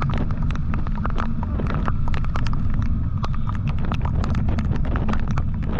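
Motorcycle on the move: a steady low rumble of engine and wind buffeting the microphone, overlaid with many sharp, irregular clicks and taps, several a second.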